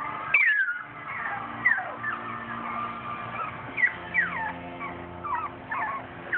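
Boxer puppies whining: a string of short, high cries that each slide down in pitch.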